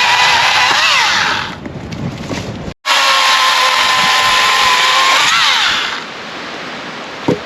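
A power tool motor running at high speed in two stretches, its pitch dipping and recovering as it takes load. It drops away, cuts off suddenly, starts again, then falls quieter near the end, with a short knock just before the end.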